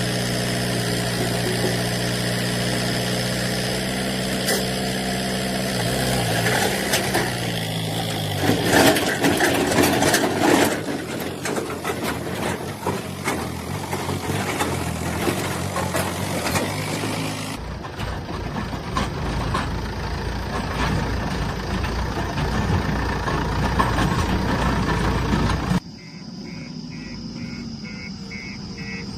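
Heavy diesel machine engine running steadily, then shifting in pitch as it is worked, followed by a loud stretch of rough noise. The sound cuts off abruptly twice. Near the end a fast, repeating beep sounds over a quieter engine.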